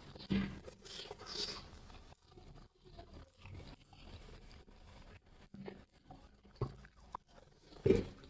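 Crunching bites of crispy fried chicken lollipop, close to the microphone, loudest about half a second to a second and a half in, then quieter chewing, with a few short knocks and the loudest thump just before the end.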